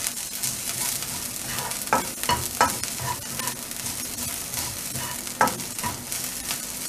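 Chopped onion and grated ginger sizzling in a little oil in a wok while a spatula stirs them around the pan. A few sharper scrapes of the spatula against the pan come about two seconds in and again past five seconds.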